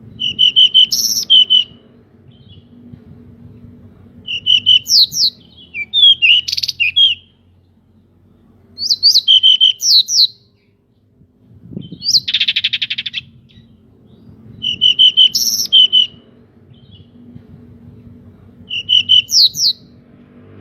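Pied bushchat (decu) singing short bursts of quick, chirpy whistled notes, repeated every two to four seconds. About twelve seconds in comes one harsh, buzzing rasp.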